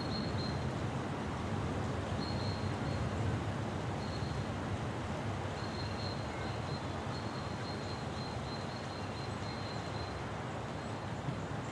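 Thunderstorm ambience: a steady low rush of wind with a deep rumble underneath. A bird's thin, high note sounds a few times at first, then runs on almost without a break for several seconds.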